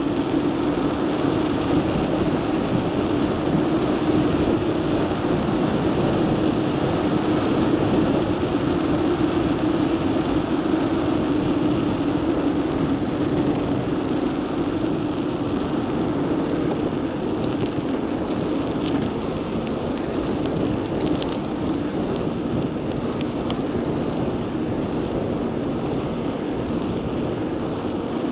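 Steady rush of wind over the microphone with road noise from a bicycle in motion.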